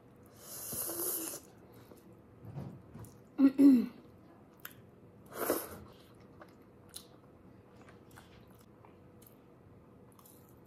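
Close-up eating sounds of a person chewing a mouthful of food: a hissy slurp or breath about half a second in, two short vocal sounds in the middle, the louder one a little past three seconds, then soft chewing with small lip smacks and clicks.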